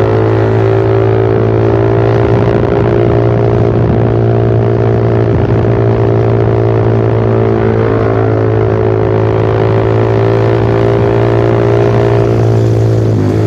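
Suzuki Satria FU FI's 150cc single-cylinder engine running through a short Pro Liner aftermarket muffler with its dB killer removed, holding a steady engine speed in an even, unchanging drone.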